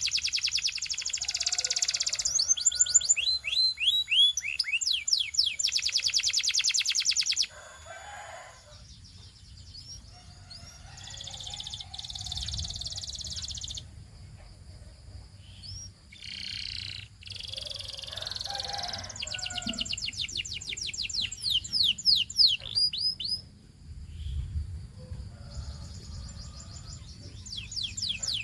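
Domestic canary singing: phrases of very fast trills and quick downward-sweeping notes, with softer, broken passages between the loud phrases.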